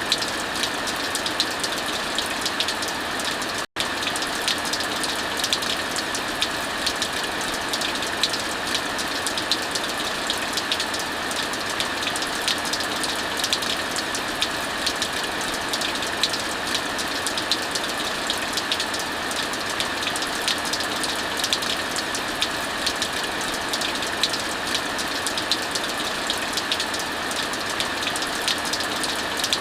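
Steady heavy rain hiss layered with the constant small pops and crackles of a burning wood fire. The sound drops out for an instant a little under four seconds in.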